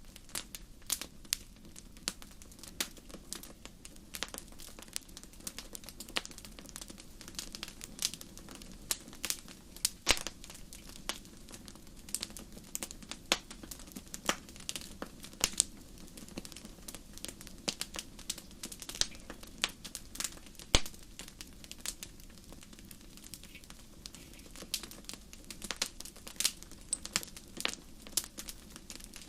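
Wood fire crackling, with irregular sharp snaps and a few louder pops over a low steady rumble of the flames.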